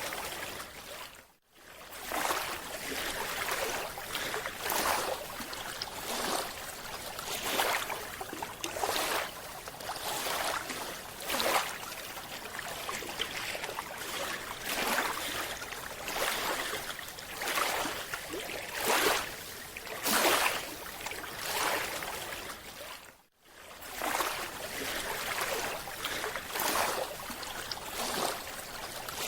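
Underwater water noise: bubbling and rushing in uneven surges about every second or so, dropping out briefly twice.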